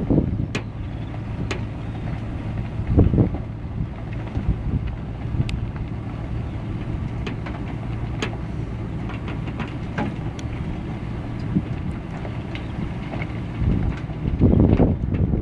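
Vehicle moving along a road during a tow: a steady low hum and road noise, with scattered sharp clicks and rattles. Louder bumps come about three seconds in and again near the end.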